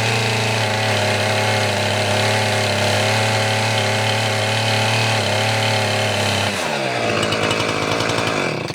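Two-stroke chainsaw running at steady high speed; about six and a half seconds in its pitch falls as the revs drop, and it stops sharply at the end.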